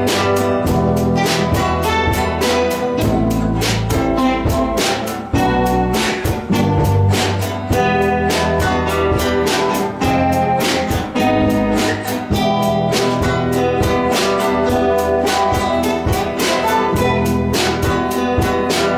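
Guitar ensemble playing an improvised piece over a steady percussive beat.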